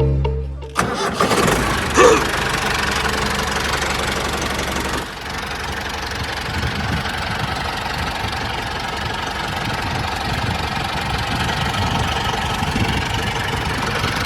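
Engine running steadily with a fast low chugging, starting abruptly about a second in.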